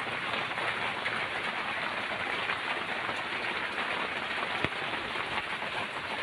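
Steady rain falling, an even dense hiss, with one sharp drip or knock a little before the end.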